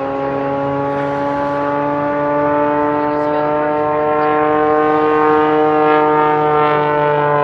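Propeller-driven aerobatic plane flying past. Its engine note grows louder and climbs slightly in pitch, then drops in pitch near the end as the plane goes by.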